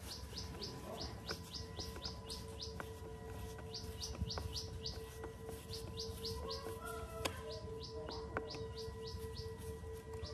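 A bird chirping in a fast, steady series of short high notes, about three a second, over a steady low hum. A few light clicks come from a screwdriver turning a screw in a chainsaw's handle bracket.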